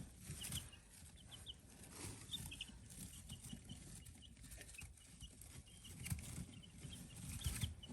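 Young meat-bird chicks peeping faintly: scattered short, high chirps from the brood over a low background rumble.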